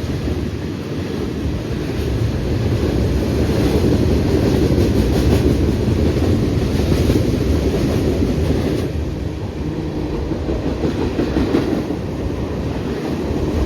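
Long CSX freight train's cars rolling past directly beneath an overpass: a steady heavy rumble of wheels on rail, with clickety-clack as the wheels cross the rail joints.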